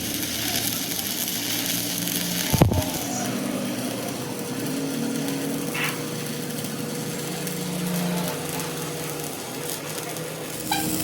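Workshop machinery running steadily with a faint hum, and one sharp knock about two and a half seconds in.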